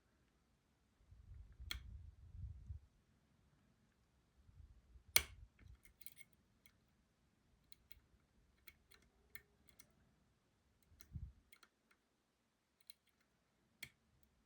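Lock-picking tools working in a Robur 2391 lock cylinder while the sidebar is probed to see if it will set: faint, scattered small clicks and ticks, with one sharper click about five seconds in and low handling bumps.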